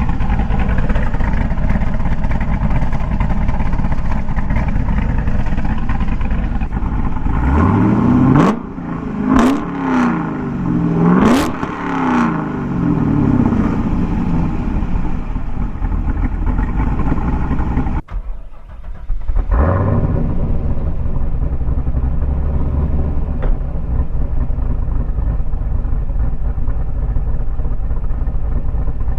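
A supercharged 408-cubic-inch LS V8 with a Summit Racing 8722R1 camshaft, running through Corsa axle-back exhaust. It idles steadily, then is blipped three times in quick succession, each rev rising sharply and falling back to idle. It drops out briefly about two-thirds of the way through, then settles back into a steady idle.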